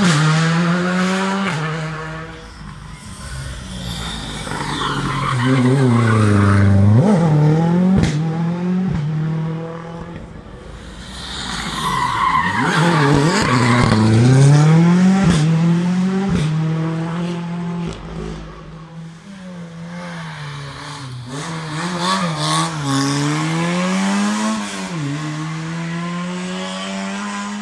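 Rally cars driven hard, engines revving high and dropping sharply with each gear change and lift-off, swelling and fading as they come past one after another. A few sharp cracks stand out.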